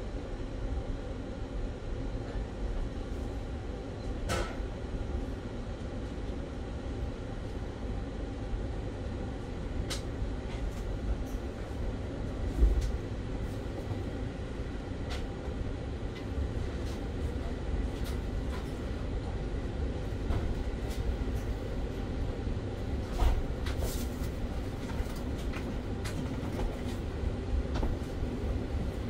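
Moving train's steady low rumble of wheels on the rails, with scattered clicks and rattles. Two heavier bumps come about twelve and twenty-three seconds in.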